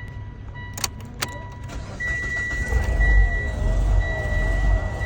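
Two sharp clicks, then about two seconds in a car engine starts and keeps running with a heavy low rumble. A steady high-pitched beep sounds throughout.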